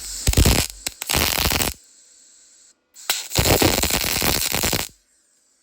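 MIG welder laying two quick tack welds on steel: two bursts of arc crackle, each about a second and a half long and about three seconds apart, each cutting off sharply.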